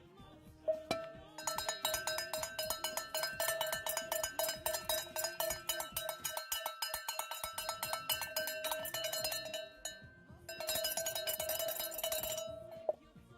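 Handheld electric power tool switched on with a steady motor whine, then worked hard against a hard material in two long stretches of dense, metallic rattling, with a short let-up between them. It is switched off near the end.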